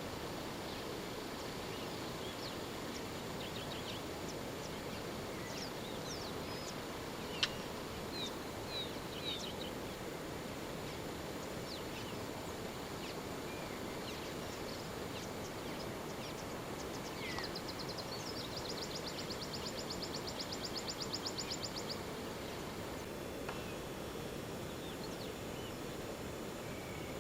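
Outdoor bush ambience: a steady background hiss with scattered short, high bird calls. A sharp click comes about a quarter of the way in, and past the middle a rapid high trill of many quick, even pulses lasts about five seconds.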